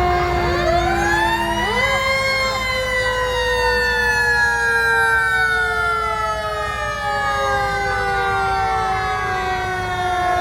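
Fire truck sirens sounding together. One siren winds up from about half a second in, peaks, and then slowly winds down, over other sirens holding steady tones.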